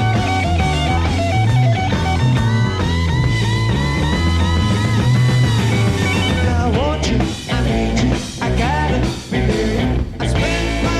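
Hard rock band playing an instrumental break, a lead electric guitar bending and sustaining notes over bass and drums, heard from an FM broadcast taped on cassette.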